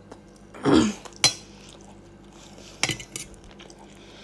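Cutlery clinking and scraping on a plate while eating. There is a short, loud sound that falls in pitch just under a second in, then a sharp clink, and a few lighter clicks about three seconds in.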